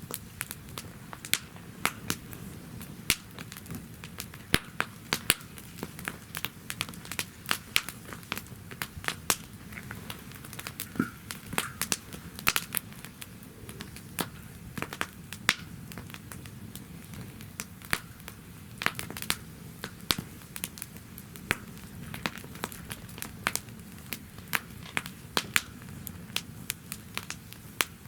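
Campfire burning in a fire pit: a steady low rumble of flame with frequent sharp crackles and pops at irregular intervals.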